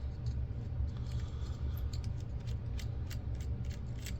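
Small tool clicks and light scraping against the camcorder's plastic and metal parts, growing more frequent from about halfway in, over a steady low hum.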